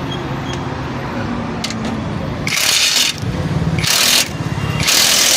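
A vehicle engine running with a steady low hum, then three loud bursts of hiss in the second half, the last about a second long.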